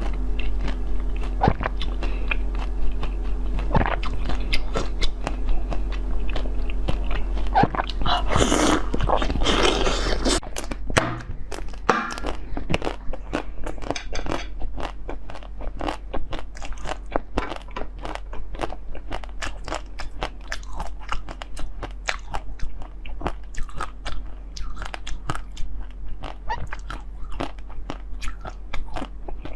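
Close-miked eating: a person biting and chewing, with many crisp crunches and wet clicks in an irregular stream, loudest about eight to ten seconds in.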